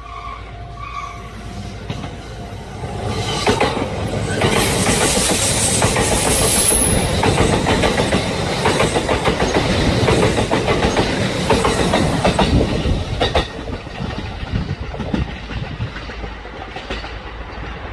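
A train running on the rails, its wheels clicking over the rail joints. It grows louder about three seconds in and eases off again after about thirteen seconds.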